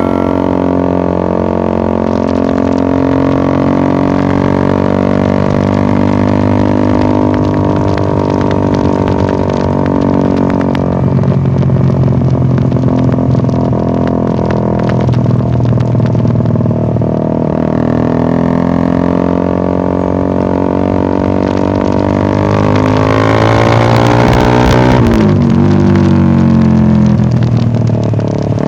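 Suzuki Satria F150 FI's single-cylinder four-stroke engine running through an SC Project aftermarket exhaust, a steady deep drone at idle. Near the end it is revved, its pitch sweeping up and back down as it gets a little louder.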